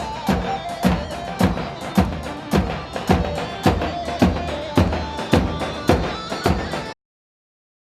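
Instrumental halay dance music: a steady drum beat of about two strokes a second under a reedy, zurna-like melody. The music cuts off abruptly about seven seconds in, leaving silence.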